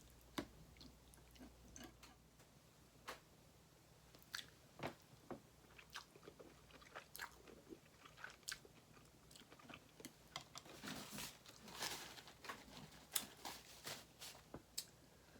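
A person eating close to the microphone: faint chewing with many short mouth clicks, and a denser stretch of noise around eleven to twelve seconds in.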